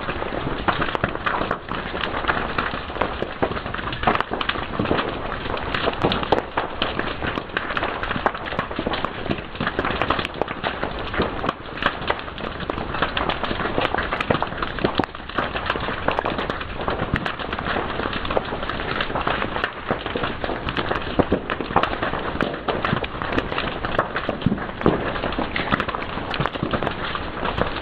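Fire crackling and popping steadily, with many sharp snaps over a constant hiss.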